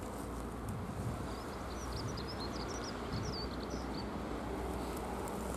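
Steady low rumble of a distant electric train approaching on the line, under general outdoor noise. A small bird twitters a quick run of high chirps from about a second and a half in until about four seconds.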